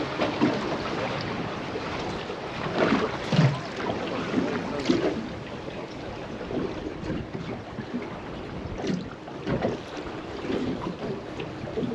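Wind buffeting the microphone over water sloshing against a small boat, with irregular splashes and knocks.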